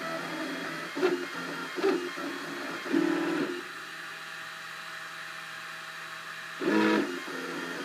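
Cubify 3D printer's stepper motors whining in short pitched bursts as the print head moves. From about three and a half seconds in there is a stretch of steady even tones, then another burst near the end.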